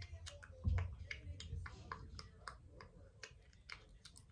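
Makeup products and their packaging handled close to the microphone: a run of small, irregular clicks and taps, with a soft low thump about two-thirds of a second in.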